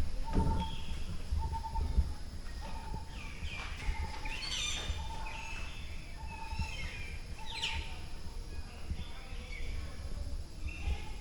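A jungle bird repeats a short, hollow, single-pitched hooting note, a little faster than once a second. Other birds chirp and trill higher up, busiest around the middle.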